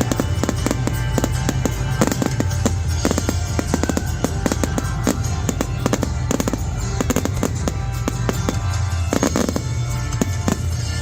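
Fireworks bursting in quick succession, many sharp cracks and bangs, over loud music played through a PA with a steady bass.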